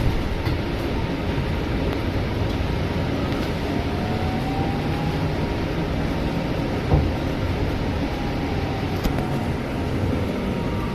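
Scania city bus running between stops, heard from inside the cabin: steady engine rumble and road noise, with a faint rising whine in the middle and a single knock about seven seconds in.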